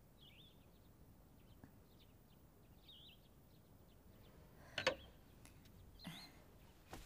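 Faint birds chirping in short calls, with a sharp knock or click about five seconds in and a smaller one near the end.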